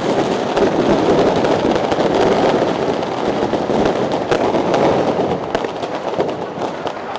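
A long string of firecrackers going off in a rapid, unbroken crackle of sharp bangs, so loud.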